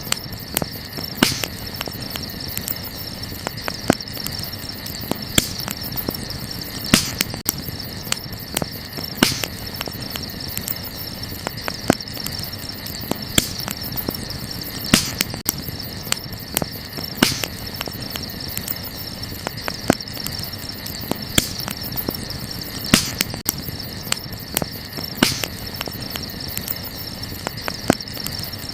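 Burning wood crackling with irregular sharp pops, several loud ones every second or two, over a steady high chirping of crickets.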